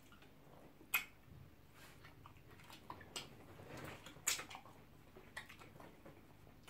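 Close-miked chewing and wet mouth smacks from eating pounded yam with ogbono soup by hand, with two sharper smacks about a second in and a little past four seconds.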